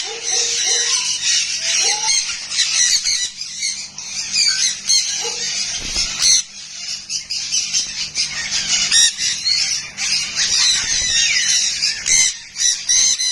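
A lory parrot screeching and squawking almost without pause in quick, harsh calls, with a steady low hum underneath.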